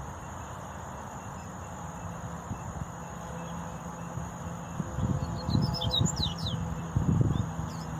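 Double-collared seedeater (coleiro) giving a brief run of quick, high chirps about six seconds in, over a steady high insect-like drone. There are low thuds around the middle and near the end.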